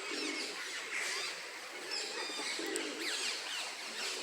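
Many birds calling together: a steady chorus of small birds chirping and twittering in quick sliding notes, with a lower call repeating about once a second.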